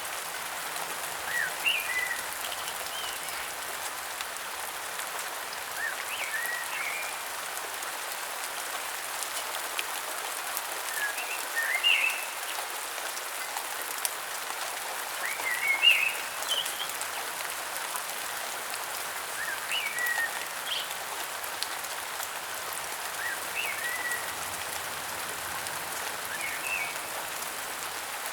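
Steady rain falling, with short chirping bird calls, a quick cluster of rising and falling notes about every four seconds.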